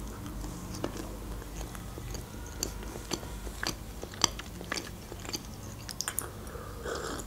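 Close-miked chewing of a bite of mini pizza, with scattered sharp wet mouth clicks and smacks. A sip from a mug comes near the end.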